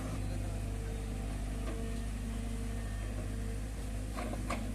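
Heavy diesel machinery engine running steadily, with two short knocks near the end.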